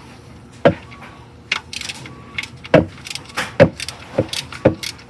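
Hand tools clinking against the oil pan drain plug and socket: about six sharp metallic clicks and knocks at uneven spacing, with a short scrape near two seconds in.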